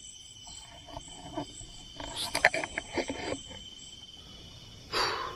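Crickets or other insects trilling steadily in several high tones, with a cluster of clicks and rustles around the middle and a short breathy burst near the end.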